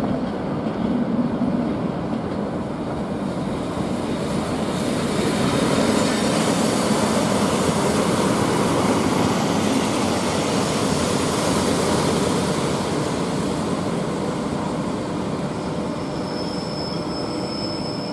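Train moving along the platform at a railway station: a steady rumble of wheels and running gear that swells and then eases off, with a thin high wheel squeal near the end.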